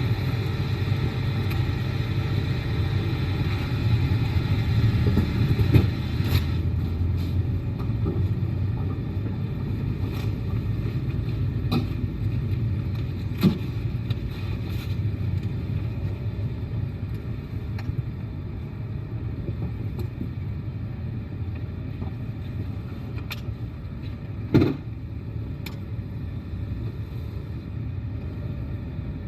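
Yamaha Tracer 9 GT's inline-three engine running under the rider, with road noise, heard from the rider's seat. It eases off after about seven seconds and then runs lower and steadier. A few sharp knocks cut through, the loudest about 25 seconds in.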